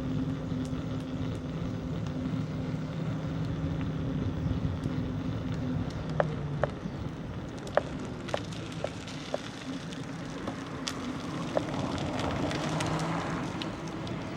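Bicycle riding along a road: steady rolling and wind noise, with a low steady hum that stops about six seconds in, then a scatter of sharp clicks and rattles.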